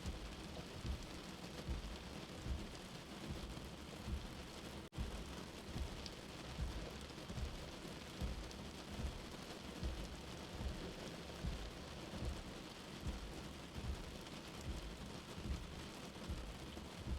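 Steady rain with a soft, low heartbeat thumping about once every 0.8 seconds. There is a momentary dropout in the sound about five seconds in.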